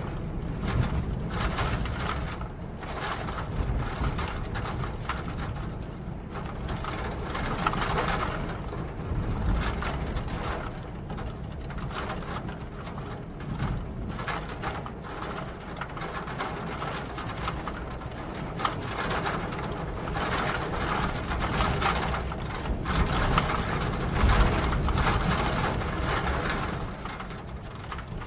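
Steady rain pattering with a low rumble underneath, made of dense small crackling clicks that swell and ease every few seconds.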